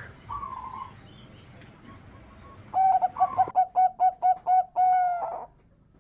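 Zebra dove (perkutut) singing: a short note just after the start, then about three seconds in a quick run of about ten staccato cooing notes that ends in one longer held note.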